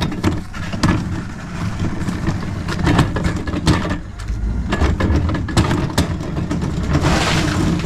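Greenworks 40-volt, 300-watt battery-powered self-propelled garden cart on the move: its electric drive motor hums steadily while the cart rattles and knocks repeatedly.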